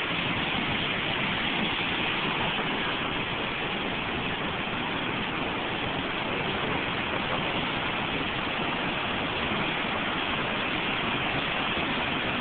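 Fast-flowing floodwater rushing, a steady, even roar of noise that does not change.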